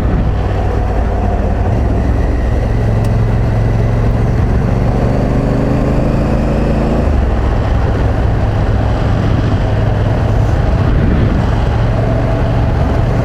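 Adventure motorcycle engine running under way, its pitch climbing for about five seconds as it accelerates, then dropping suddenly about seven seconds in before running steadily again, over a constant rush of wind and road noise.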